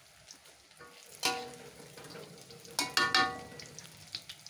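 Tofu-and-egg fritters sizzling in oil in a wok, with a metal spatula knocking and scraping against the wok twice, about a second in and again about three seconds in, each with a short metallic ring.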